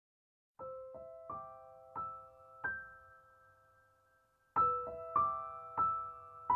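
Background music: slow solo piano, single notes struck about every two-thirds of a second and left to ring. It starts after a brief silence, thins out near four seconds, and comes back louder about four and a half seconds in.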